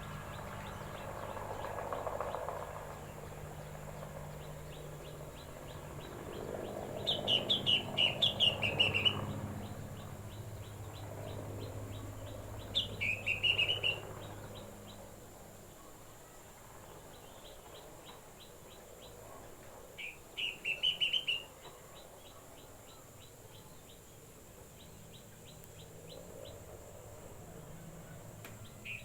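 A bird singing short phrases of quick chirping notes that slide down in pitch, four times with pauses of several seconds between them. A faint low hum runs under the first third and fades out.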